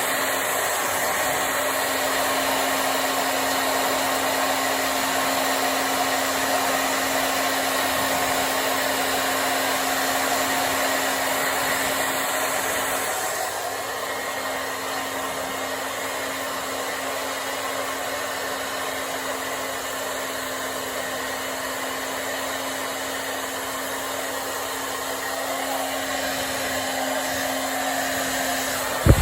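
Handheld hair dryer blowing steadily on hair, with a constant motor hum under the rush of air. Its sound dips slightly about halfway through, and there is a brief click near the end.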